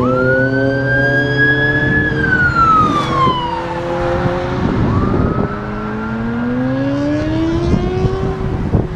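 Car engines accelerating hard: one long rising pull that eases off and falls away, then a second pull climbing until it drops off near the end, over a steady low engine idle.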